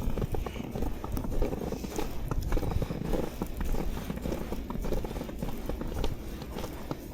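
Footsteps of a person walking through fresh snow at a steady pace, many short soft knocks, over a steady low rumble.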